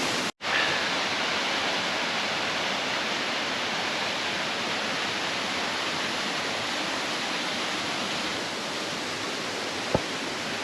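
Steady rushing of a mountain waterfall, cutting out briefly about half a second in, with a single small click near the end.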